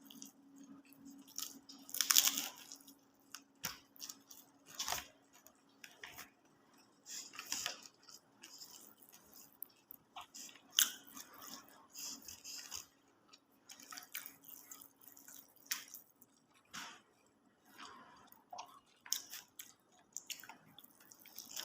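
A person chewing a nasi Padang meal close to the microphone: irregular wet chewing and mouth noises with sharp clicks. A faint steady hum sits underneath and fades out about three-quarters of the way through.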